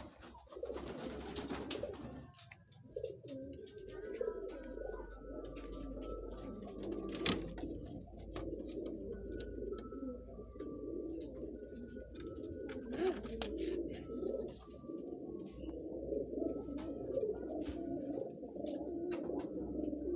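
Several domestic pigeons cooing continuously, mixed with short higher notes and scattered sharp clicks.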